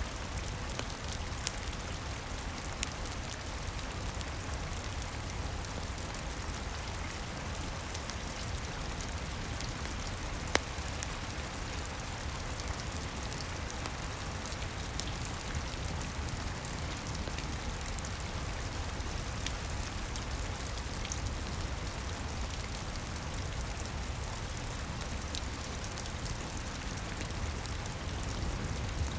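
Steady rain falling, with the occasional sharp pop of a crackling wood fire; the loudest pop comes about ten seconds in.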